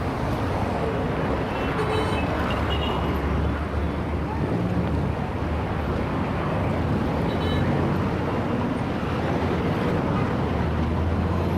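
Heavy city traffic: a steady low rumble of engines and tyres, with faint brief higher sounds such as brakes or horns around two seconds in and again past seven seconds.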